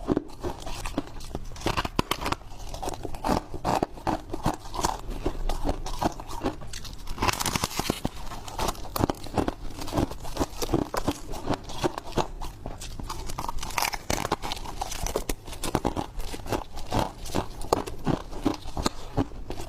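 Freezer frost being bitten, close up: dense, irregular crunching and crackling bite after bite.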